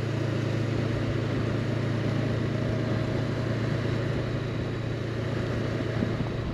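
Honda CB500X's parallel-twin engine running at a steady pace while riding, with steady wind and road noise over it.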